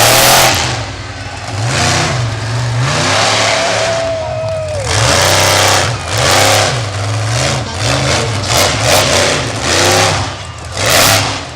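Monster truck engine revving hard over and over, its pitch climbing and dropping with each throttle stab, with loud rushing surges of noise on the revs.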